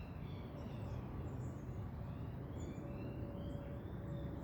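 Small birds chirping and twittering over a low, steady background rumble, with a faint steady tone coming in about three seconds in.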